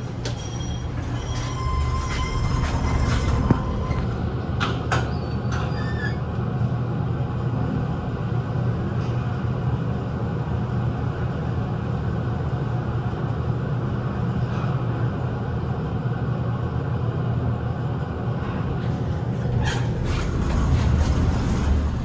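PATCO Speedline rapid-transit train rumbling through the station, with brief high-pitched wheel squeals in the first few seconds and a few sharp clicks.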